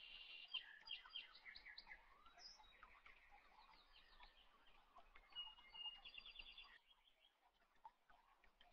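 Faint bird chirps and short trilled calls in the background, repeating in bursts, with a quieter gap near the end.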